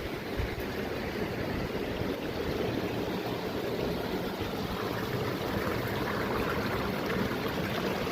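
Running water of a mountain stream: a steady, even rush, with low gusty wind rumble on the microphone.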